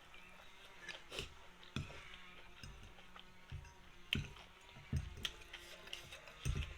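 Eating sounds from a person eating noodles with fish paste: a string of short clicks and soft knocks, about eight, spread irregularly, over a faint steady hum.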